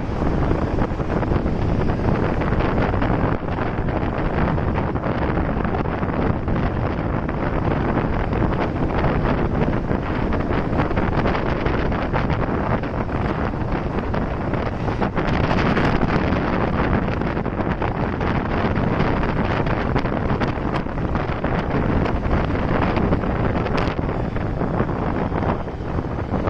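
Wind buffeting the microphone of a moving motorcycle, a steady rush over the road and traffic noise, easing a little near the end.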